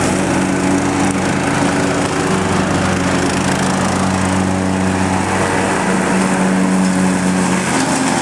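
John Deere lawn tractor's engine running steadily under load, its mower blade shredding wet leaves into a powder.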